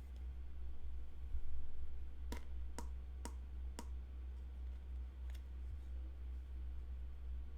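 Four sharp clicks about half a second apart, then a fainter fifth click, over a steady low hum.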